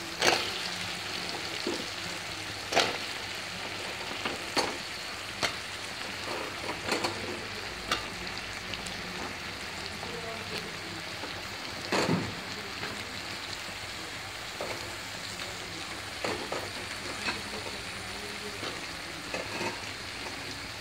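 Cubed raw potatoes sizzling in oil with onion-tomato masala in a pan, while a metal spatula stirs them, scraping and knocking against the pan now and then. The sharpest knock comes about twelve seconds in.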